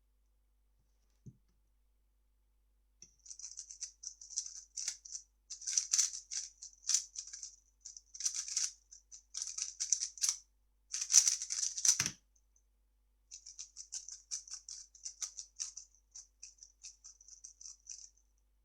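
3x3 speedcube being turned very fast by hand, a dense run of plastic clicking and clacking with short gaps, and one dull knock about twelve seconds in.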